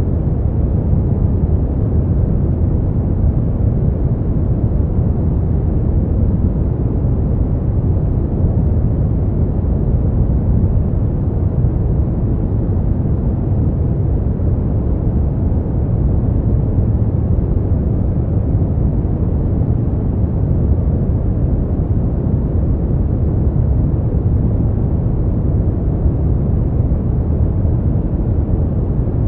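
Continuous steady white-noise track for sleep, a deep rushing hiss weighted toward the low end, with no change in level.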